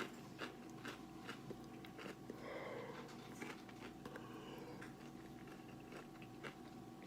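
Faint chewing and crunching of a fried chicken wing, with small irregular crackles and clicks.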